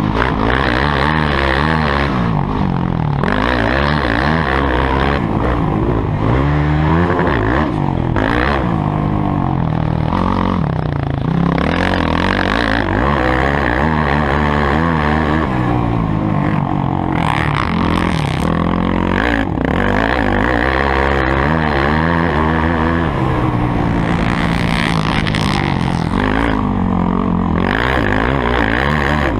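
Motocross bike engines running hard, their pitch rising and falling over and over with throttle and gear changes.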